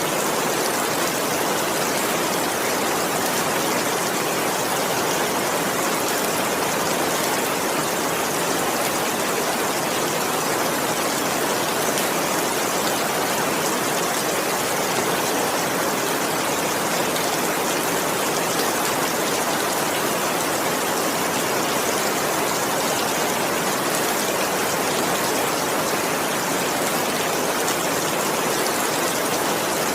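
Heavy rain falling steadily, a constant even hiss with fine pattering and no thunder.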